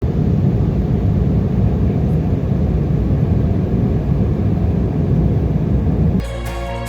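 Jet airliner engine noise: a loud, steady low rumble. It gives way to background music near the end.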